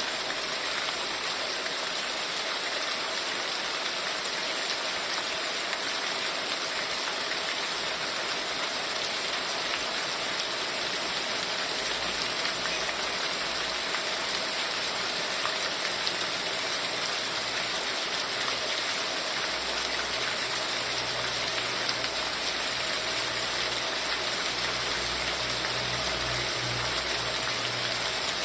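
Heavy rain falling steadily, an even, dense hiss of downpour. A faint low rumble comes in partway through and is strongest near the end.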